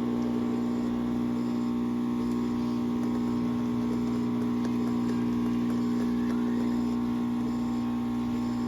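Small electric appliance motor humming steadily on one pitch, cutting off suddenly just after the end.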